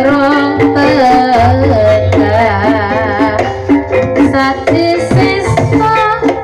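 Javanese ebeg accompaniment music: hand-drum (kendang) strokes over repeating notes from struck keyed instruments, with a singing voice gliding with vibrato over the top.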